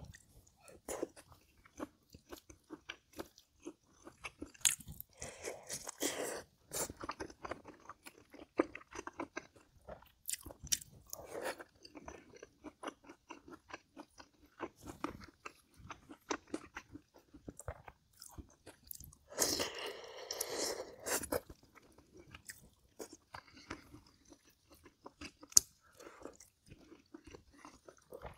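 Close-up mukbang eating sounds: chewing and crunching with many small mouth clicks. There are two longer, louder noisy stretches, one about five seconds in and one about twenty seconds in.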